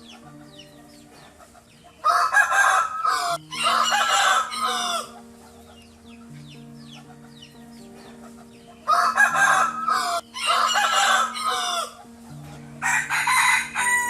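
A rooster crowing three times: about 2, 9 and 13 seconds in, each crow coming in two loud parts with a brief break.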